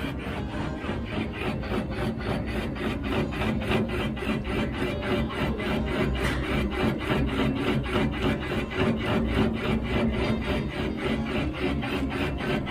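Line-boring bar slowly cutting the worn pin bore of a Scania axle, a steady scraping of the cutter on steel that pulses about four times a second. The bar is driven through a cardan joint and turns a little off-centre, so it is run slowly.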